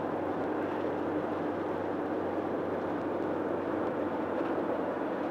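Steady road and engine noise inside a car cruising on a motorway, an even rushing sound with a low hum.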